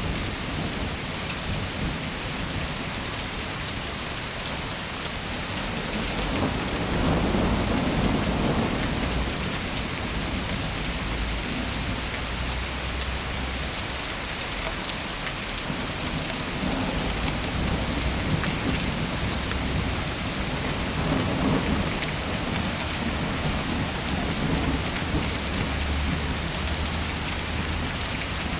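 Steady heavy rain, a dense even hiss of drops, with low rumbling swells rising and fading several times, the first about six seconds in.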